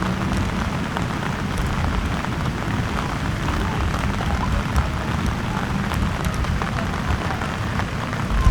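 Steady rain falling, a continuous hiss with a dense scatter of small drop ticks on surfaces.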